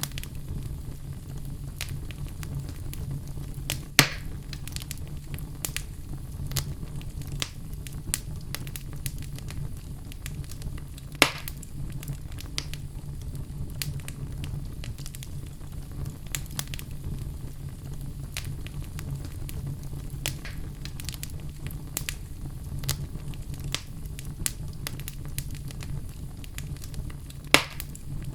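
Wood fire burning in a fireplace: a steady low rumble of flames with many small crackles scattered throughout and three louder pops.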